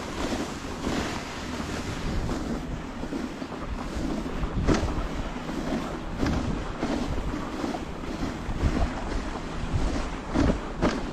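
Dog sled moving along a snow trail: a steady rushing hiss of the runners and wind on the microphone, with a few sharp knocks from the sled.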